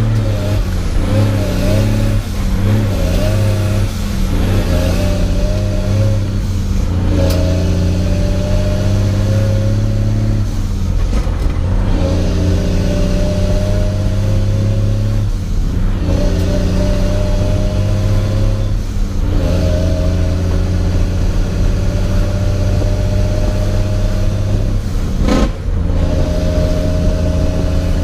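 Heavy truck's diesel engine pulling through the gears of an 18-speed manual transmission: the revs climb in each gear, then drop away at each upshift, about six shifts in all. There is a short sharp click during one of the later shifts.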